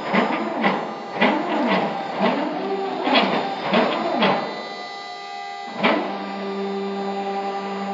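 Stepper motors of a partly assembled CNC wood router on a test run, making short repeated moves: each move is a whine that rises and falls in pitch, several times in a row. A sharp knock comes near six seconds, after which a steady whine holds.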